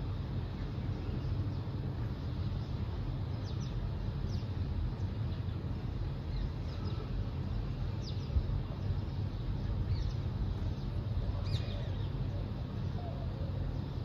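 Scattered short, high bird chirps, one every second or two, over a steady low background rumble.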